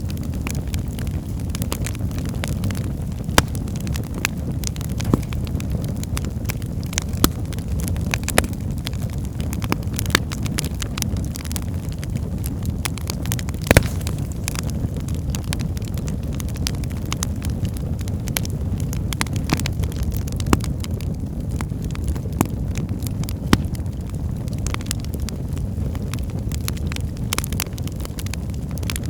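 Wood fire burning in a fireplace: a steady low rumble of the flames with sharp crackles and pops at irregular intervals, one louder pop about halfway through.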